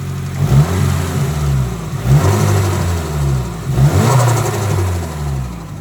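Nissan S13's SR20 four-cylinder engine blipped three times from idle, each rev rising and falling, then settling back toward idle near the end. It revs smoothly with no misfire, which the owner takes as fixed after a holed intake coupler was replaced.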